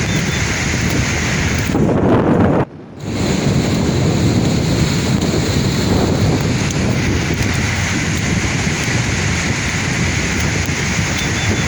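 Sea waves washing and breaking on the shore in a steady rush, with wind on the microphone. The sound dips sharply for a moment about two and a half seconds in, then resumes.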